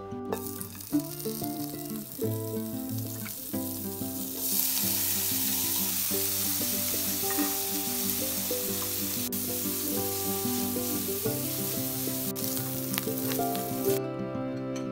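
Chopped beef bacon frying in butter in a pan, sizzling, much louder from about four seconds in and stopping shortly before the end. Soft guitar background music plays underneath.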